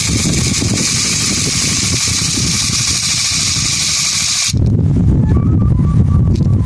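Strong wind rushing over the microphone as a loud, steady noise, cut off suddenly about four and a half seconds in by electronic music with a heavy bass beat.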